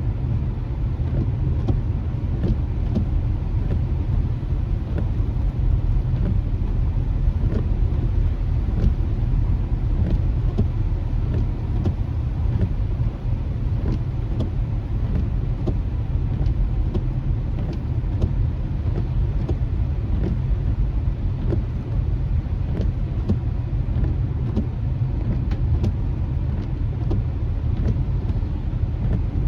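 Car road noise heard from inside the cabin while driving on wet streets: a steady low rumble with tyre hiss and scattered light ticks.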